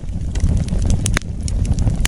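Wood fire crackling, with scattered sharp pops, two louder ones a little after a second in, over a low steady rumble of the flames.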